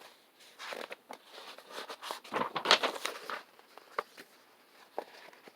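Paper rustling and scraping as a picture-book page is turned, followed by a few light taps.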